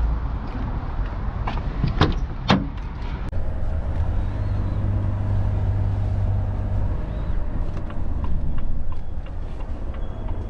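Lorry engine and drivetrain running with a low rumble, heard from inside the cab. Two sharp knocks come about two seconds in, half a second apart.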